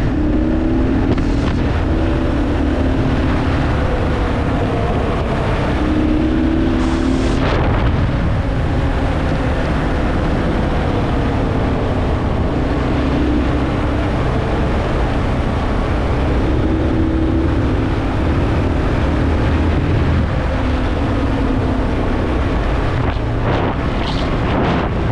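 Kawasaki KLR dual-sport motorcycle's single-cylinder four-stroke engine running while riding a trail, its pitch rising and falling with the throttle, with wind rushing over the microphone.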